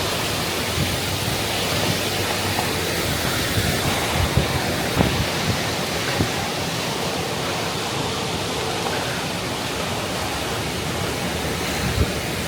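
Steady rushing of strong rear-flank downdraft storm winds, with a few short low thumps from gusts.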